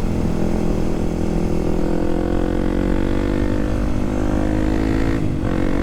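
Kawasaki KLX300SM's single-cylinder engine under way, the revs climbing steadily for several seconds. Near the end there is a short break and the pitch drops back, as at an upshift.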